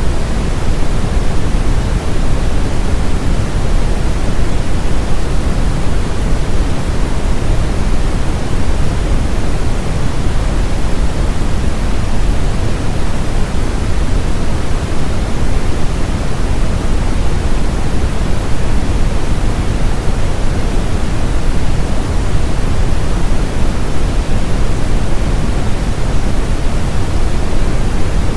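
Steady brown noise: an even, deep hiss weighted heavily toward the low end, with no changes or events.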